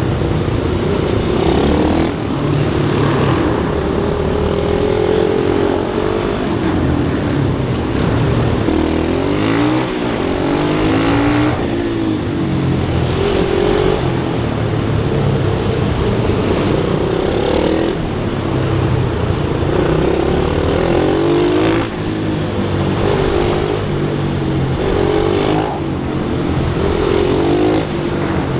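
Small pit bike engine being ridden hard on a track, its pitch climbing and falling again and again, with brief drops in loudness every few seconds.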